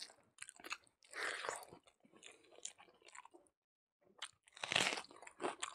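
Close-miked chewing with crunchy bites, the loudest a bite into a whole raw red onion about five seconds in.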